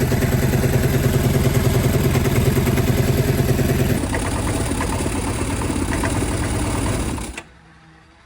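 Vespa GT200 scooter's single-cylinder four-stroke engine running steadily. It runs louder for the first four seconds, drops back a little, then cuts off about seven seconds in.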